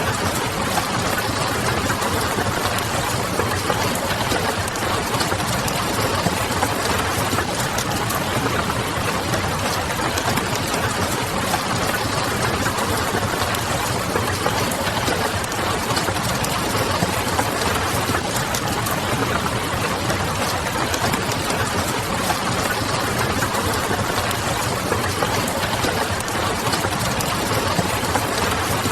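Steady rain pattering blended with a wood fire crackling: a dense, even wash of noise with many small ticks throughout.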